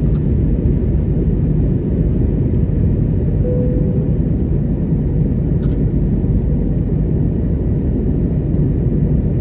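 Steady engine and airflow rumble in the cabin of an Airbus A321neo climbing through 10,000 feet.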